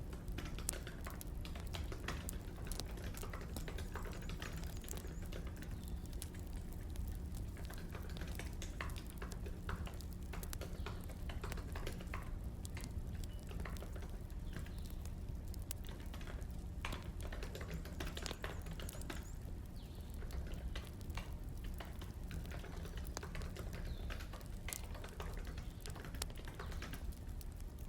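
Wood fire crackling with irregular small pops, mixed with keyboard typing, over a steady low hum.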